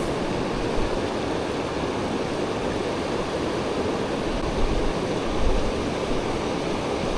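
Steady rushing noise of strong wind and water, even throughout.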